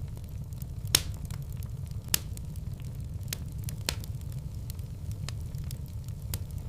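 Fire in a fireplace crackling over a steady low rumble, with scattered sharp pops; the loudest pops come about a second in and again about a second later.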